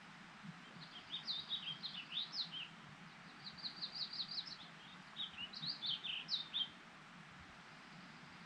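A songbird singing three quick phrases of short, high, downward-slurred notes, over a steady faint hiss of outdoor background.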